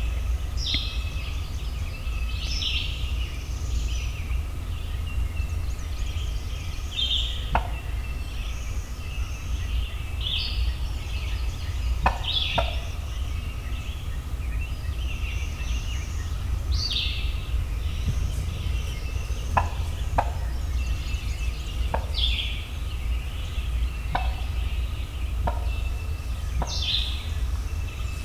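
A songbird sings a short phrase every couple of seconds. About a dozen sharp, very short notes come in at scattered moments, each falling quickly in pitch, with a steady low rumble underneath.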